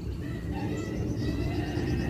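Songbird giving faint, thin, high whistled notes over a steady low rumble.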